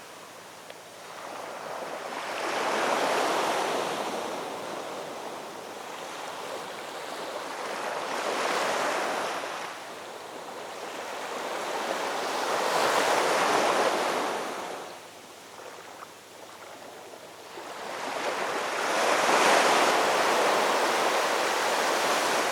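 Ocean waves breaking and washing up a shore, four surges of surf that swell and fade, several seconds apart.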